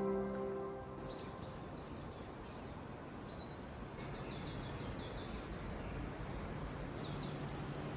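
Wild birds calling in quick runs of short, high chirps, several notes a second, in a few bursts, over a steady outdoor background hum. Soft ambient music with a gong fades out in the first second.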